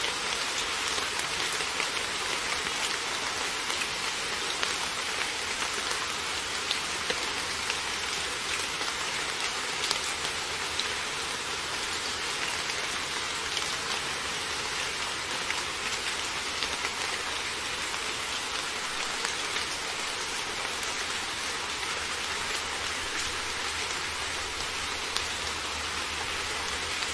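Heavy rain falling steadily: a dense, even hiss with many sharper individual drop hits scattered through it.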